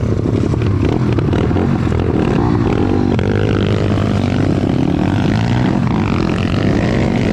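Stomp pit bike engines revving up and down as they are ridden, the pitch rising and falling over and over.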